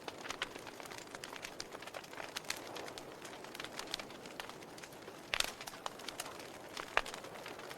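Burning wood logs crackling in a fireplace: a steady hiss with irregular sharp pops and snaps, and a louder cluster of pops about five and a half seconds in.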